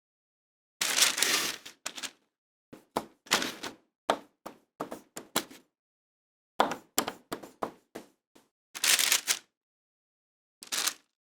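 Kitchen utensils and dishes clattering as food is handled: a run of irregular sharp clicks and knocks, with two longer, louder noisy stretches, one about a second in and one near nine seconds.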